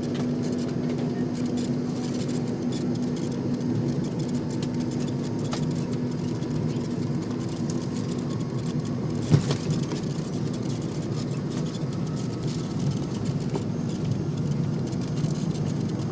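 Steady low rumble of a McDonnell Douglas MD-88's rear-mounted Pratt & Whitney JT8D jet engines at takeoff, with a faint slowly rising whine and a single sharp click about nine seconds in.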